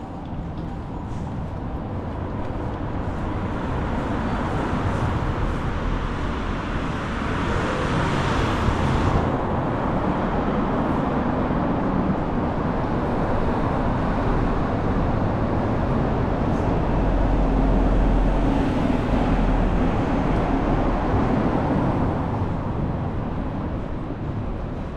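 Road traffic on a city street, a steady noise of passing vehicles that swells and eases, with a heavy low rumble about two-thirds of the way through.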